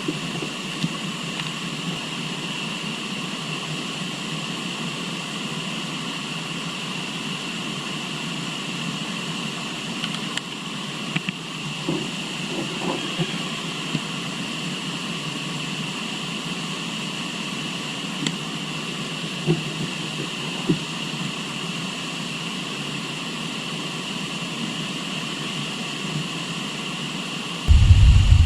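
Steady rush of river water, with a few faint knocks partway through. A sudden loud low rumble comes in near the end.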